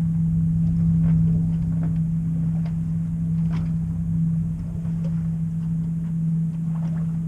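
A sailboat's inboard engine running steadily under way, giving an unbroken low hum and rumble, with a few faint ticks over it.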